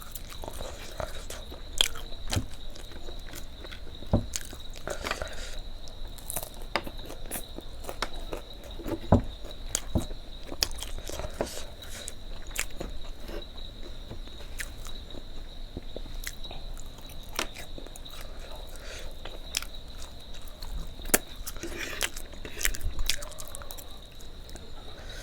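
A person biting and chewing food close to the microphone, with irregular wet clicks and crunches. A steady high whine sits underneath.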